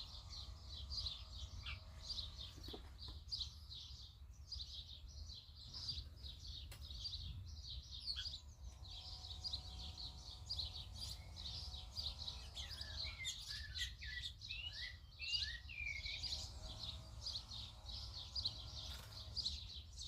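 A flock of small birds chirping nonstop, many short high calls overlapping. Some lower, swooping calls join in a little past halfway, over a steady low rumble.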